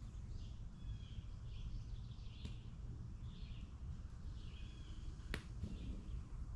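Bird chirping in short repeated phrases about once a second over a low outdoor rumble, with a sharp click about five seconds in.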